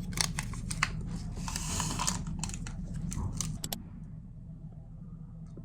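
Typing on a keyboard: quick, irregular key clicks that stop about three and a half seconds in, leaving a steady low hum.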